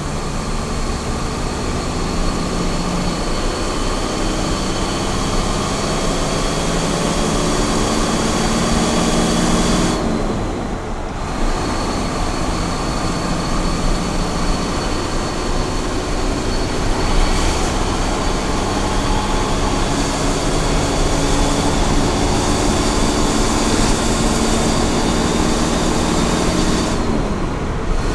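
Small truck's engine pulling at highway speed over steady road and tyre noise, its note climbing slowly. The note breaks off briefly twice, about ten seconds in and again near the end, at gear changes.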